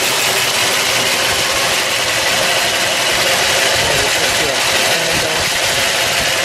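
Ford 292 cubic-inch Y-block V8 idling steadily, heard close up over the open engine bay.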